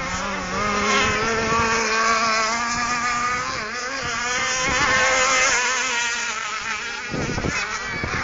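Motors of several radio-controlled catamaran boats whining together, their pitches wavering up and down as they run.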